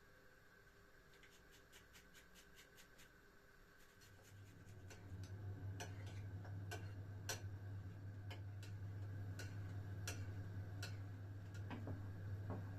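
Small quick clicks and taps, then a steady low hum starts about four seconds in, with scattered sharper clicks over it.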